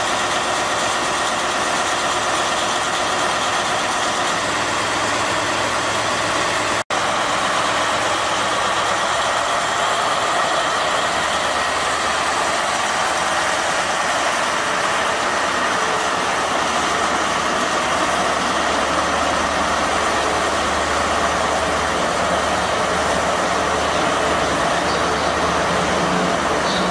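British Rail Class 43 HST power car's MTU 16V4000 diesel engine idling steadily, a loud even running with a low hum underneath. The sound cuts out for an instant about seven seconds in.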